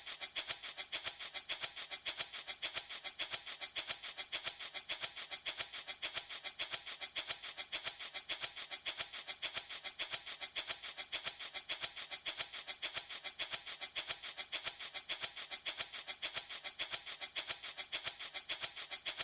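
Handmade wooden baby rattle shaken in a steady, even rhythm, several shakes a second, each one a bright, hissy rattle of small beads or pellets.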